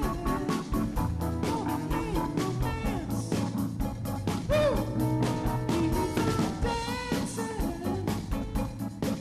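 Rock band music with guitars over a drum kit keeping a steady beat.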